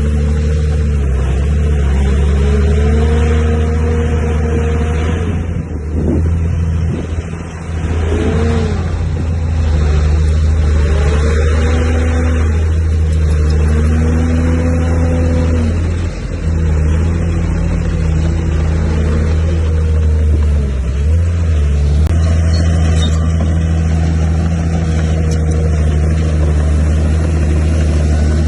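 Komatsu D31P bulldozer's diesel engine running under load, its note rising and falling again and again as the load changes while it pushes earth.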